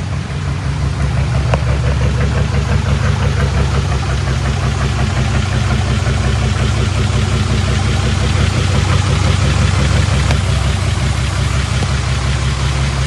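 Heavy diesel engine of earthmoving machinery running steadily, its low drone growing a little louder about a second in.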